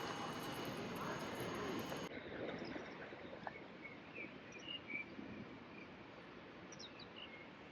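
A steady noisy hum with high, even whines runs for about two seconds, then cuts off abruptly. After it, faint short bird chirps come every second or so over a quiet outdoor background.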